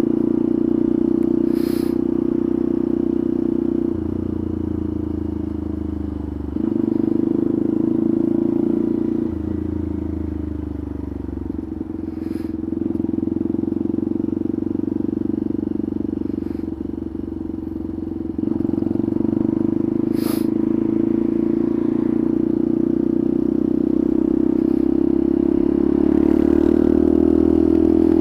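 Small motorcycle engine running under way, its note and loudness stepping up and down several times as the rider works the throttle and gears, with a few brief clicks.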